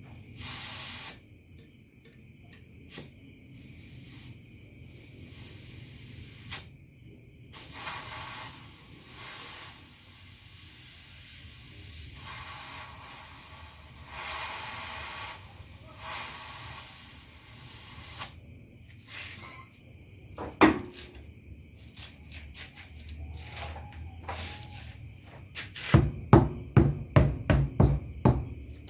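Steady high insect chirring, with several spells of hissing and a quick run of knocks near the end.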